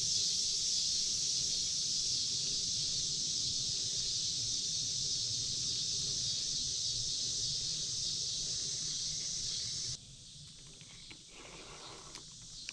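Steady high-pitched chorus of insects, which drops away abruptly about ten seconds in, leaving a much quieter background with faint rustling.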